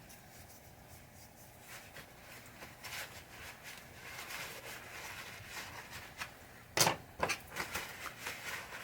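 Cloth wiping and rubbing over small parts, a soft irregular rustle, with two sharp clicks of a part being handled or set down about two-thirds of the way through.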